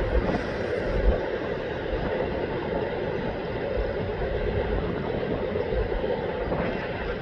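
Eastbound intermodal freight train rolling past, a steady rumble and rush of wheels on rail.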